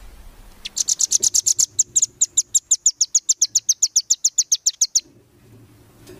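A small songbird's rapid 'nembak' burst: sharp, high, evenly repeated notes at about eight a second. It starts about a second in, runs for some four seconds and cuts off abruptly.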